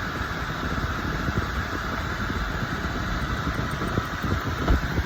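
Automatic car wash machinery running, a steady even noise heard from inside the car.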